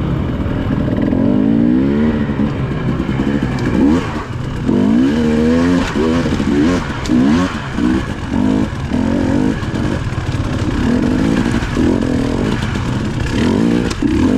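Dirt bike engine revved up and down over and over, its pitch climbing and dropping with each burst of throttle, the bursts coming roughly once a second from about four seconds in.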